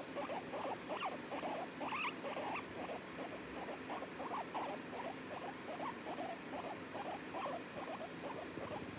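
A small pet making rapid short squeaks, about two to three a second, over a steady low hum.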